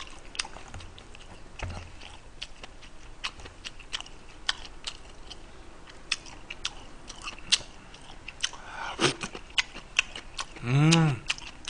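Close-miked chewing and wet mouth sounds of a person eating, with many irregular sharp smacks and clicks. A short hummed voice sound near the end.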